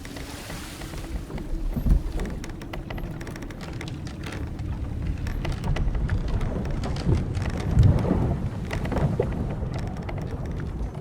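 Old wooden sailing ship at sea: water washing and splashing, a low rumble, and many small creaks and knocks of timber and ropes, with heavier thumps about two seconds in and near eight seconds.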